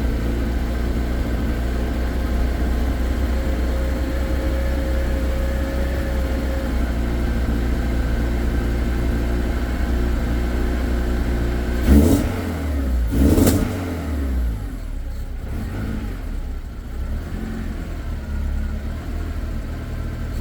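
Honda K24A2 2.4-litre inline-four, freshly swapped into a Mazda RX-8, idling steadily on a cold start with an untuned base map. About twelve seconds in it is revved in two quick blips, then drops back to a lower, less even idle.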